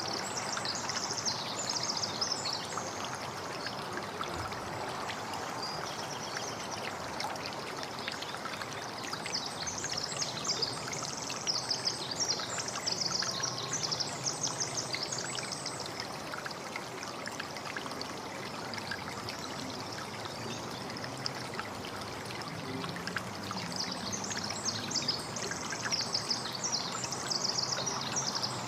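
Running water trickling and splashing steadily, with songbirds chirping rapidly in high-pitched spells near the start, around the middle and near the end.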